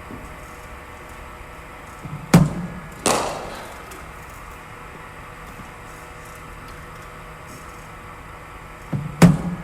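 Two deliveries from a cricket bowling machine. Each begins with a thud as the machine fires the ball, followed about three-quarters of a second later by the sharp crack of the bat striking it, with a ringing tail. A faint steady hum runs underneath.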